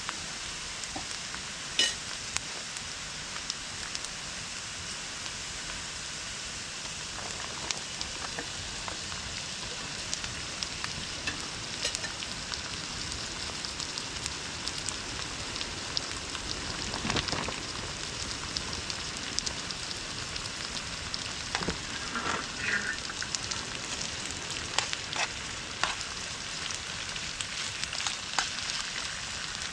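Food frying in a pan, a steady sizzle with scattered pops and crackles.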